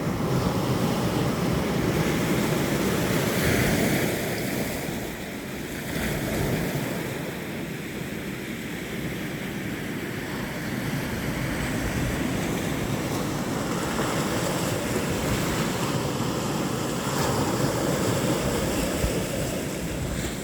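Sea waves washing onto the shore in slow swells, loudest in the first few seconds, with wind rumbling on the microphone.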